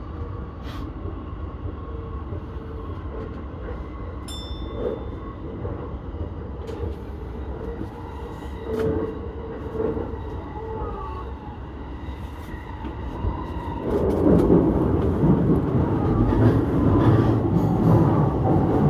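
Electric commuter train running on the Keihin-Tohoku Line, heard from the front car: a steady rumble of wheels on rail with faint tones from the motors. About 14 seconds in it grows louder and rougher.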